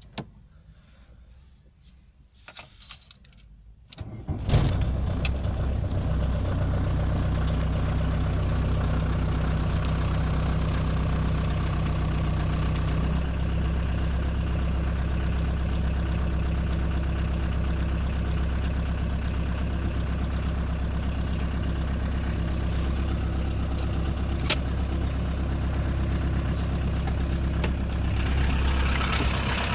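A few clicks, then about four seconds in the 1991 VW Golf 2's 1.6 turbodiesel four-cylinder starts from cold at −2 °C, catching quickly and settling into a steady diesel idle.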